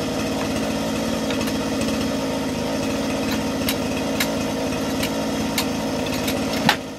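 An engine idling steadily. From about halfway through come a series of sharp metallic clicks, roughly two a second: a jack being let down step by step to lower a mesquite trunk section.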